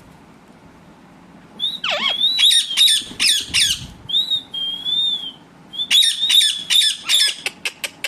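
Pet parrot calling: after a quiet start, bursts of rapid shrill chirps and short whistles begin about a second and a half in, with a longer, wavering whistle about halfway through and another burst of chirps after it.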